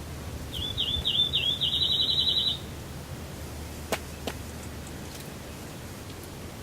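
A small songbird sings once, about two seconds long: a few high slurred notes that speed up into a fast, even trill. Two faint clicks follow a little later.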